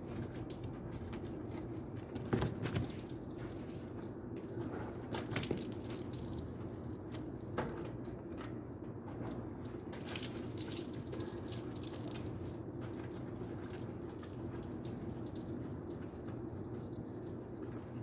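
Water dripping and splashing in irregular short spatters and clicks over a steady low hum.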